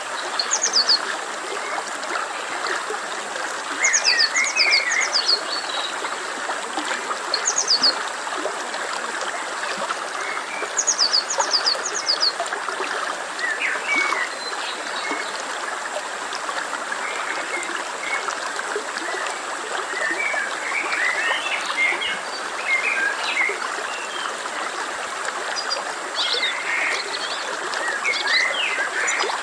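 A stream flowing steadily, with birds calling over it: short, high, falling notes in quick groups of three or four, repeated every few seconds through the first half, and scattered chirps.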